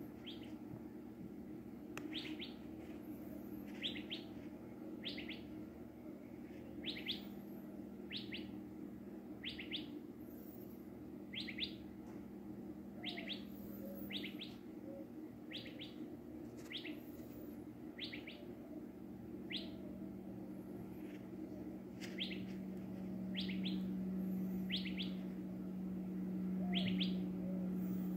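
A bird chirping: short high chirps, singly or in quick pairs, about once a second, over a steady low hum that grows louder about three-quarters of the way in.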